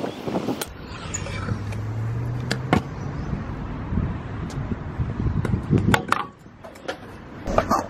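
A motor vehicle going past, a low engine hum that rises slightly in pitch for a couple of seconds, amid scattered sharp knocks and clatter.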